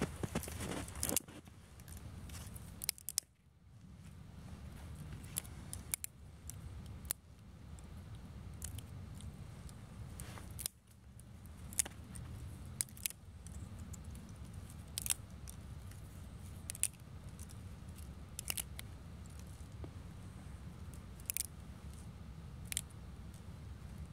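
Scattered sharp snaps and clicks of dry twigs, one every second or two, over a low steady rumble, as a small campfire is being started.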